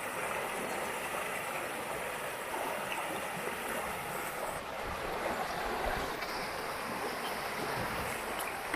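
River water rushing past in a steady, even stream.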